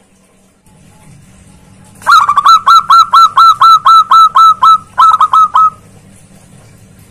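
Zebra dove (perkutut) calling loudly: a fast run of about fifteen short, clipped falling notes, about four a second, with a brief break before the last few.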